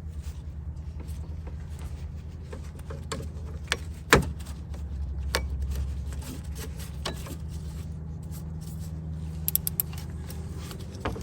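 Small clicks and knocks of hands and tools working a new serpentine belt onto the engine's pulleys, with one sharper knock about four seconds in, over a steady low rumble.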